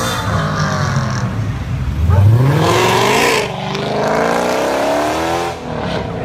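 High-performance car engine revving and accelerating, its pitch climbing about two seconds in, dipping briefly near the middle, then climbing again.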